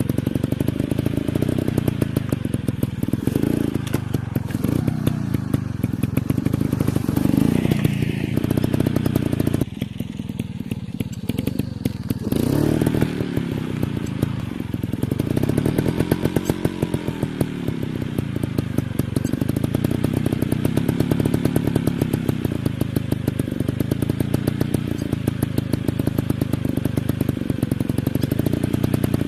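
Dirt bike engines running and revving up and down, the pitch rising and falling repeatedly, with a brief drop in level around ten seconds in.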